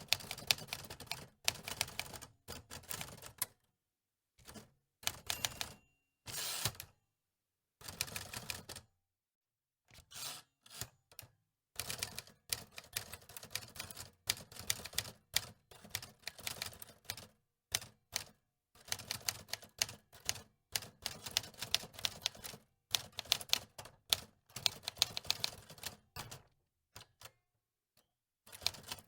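Antique typewriter keys clacking in quick runs of strokes, with short pauses between the runs.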